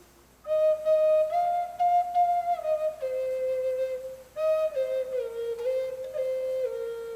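Native American flute playing a slow solo melody: a phrase of held notes stepping up and back down, a short breath break about four seconds in, then a second phrase settling lower.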